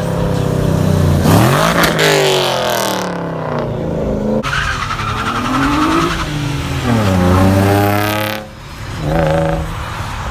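Car engine revving up and down several times over a steady idle, its pitch climbing and falling back, with a short blip near the end.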